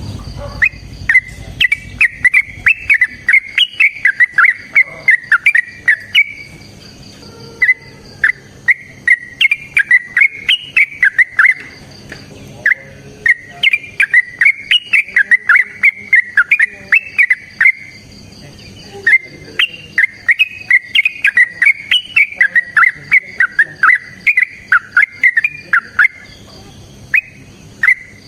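Yellow-vented bulbul (trucukan) singing long, rapid, bubbling phrases of chattering notes, each lasting several seconds, with breaks of about a second between them.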